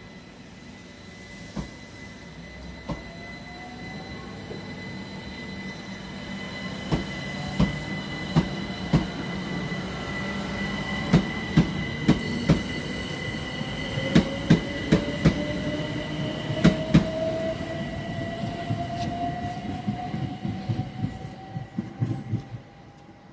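A train running through the station: wheels clicking sharply over the rail joints in quick groups over a rumble that builds to its loudest mid-way. A whine rises slowly in pitch throughout, with thin high steady tones above.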